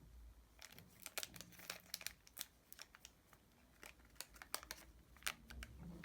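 Faint, scattered crinkling and light clicks of something being handled, a few small ticks a second with short gaps.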